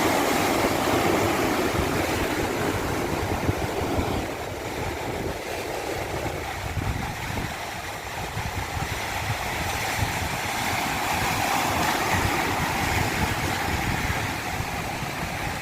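Rushing water, a continuous wash that swells and eases in slow surges.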